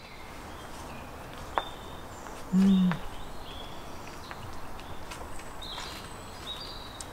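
Outdoor ambience with small birds chirping now and then. A sharp click sounds about a second and a half in, and a short low hum of "mm" comes from someone tasting food a second later; the hum is the loudest sound.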